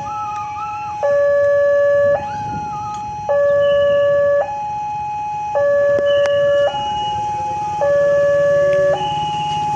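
Railway level-crossing warning alarm sounding its alternating two-tone signal, a higher and a lower tone each held about a second, the lower one louder, warning that a train is approaching.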